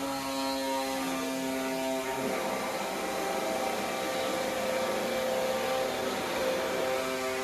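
Electric power tool motor running steadily with a whine, its pitch shifting about two seconds in and again near the end as the load changes.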